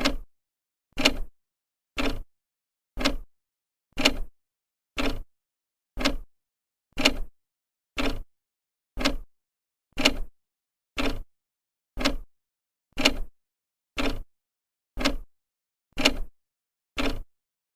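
Old clock's second hand ticking, one even tick every second with silence between.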